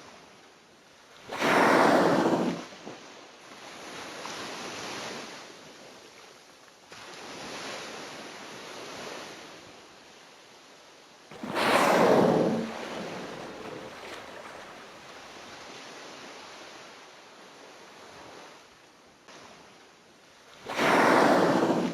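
Young whale blowing at the surface: three loud, noisy whooshing exhalations about ten seconds apart, with softer washes of sea water between them.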